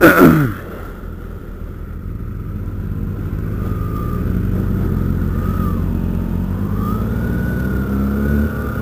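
Sport motorcycle engines pulling away under steady acceleration, the pitch and loudness rising slowly, heard from the rider's helmet. It opens with a loud, brief sound that falls sharply in pitch, and near the end the engine note dips briefly, as at a gear change.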